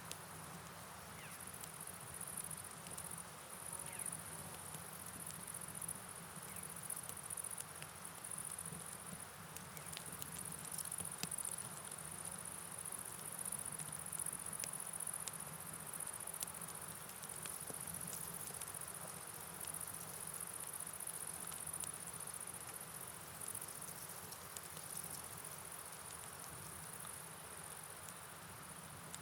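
Night forest ambience: a steady high-pitched chorus of chirping insects over an even hiss of rain and flowing river water, with scattered faint clicks.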